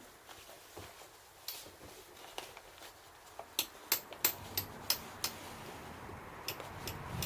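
Wood fire crackling, with irregular sharp pops and snaps that come thickest a few seconds in.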